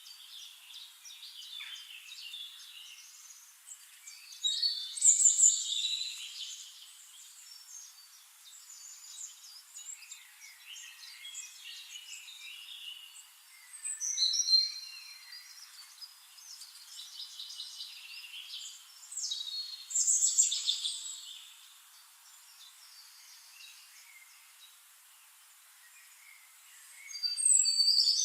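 Several birds singing in a tropical forest: bursts of high chirps and trills every few seconds, the loudest about five, fourteen and twenty seconds in and again near the end, over a faint hiss.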